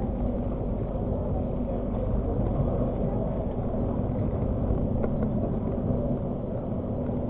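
Argo Parahyangan passenger train running along the track, heard from on board as a steady low rumble with an even hum.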